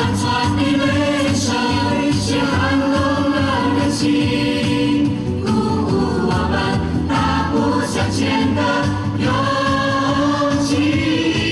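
Choral song with instrumental backing: sustained choir voices over a steady beat.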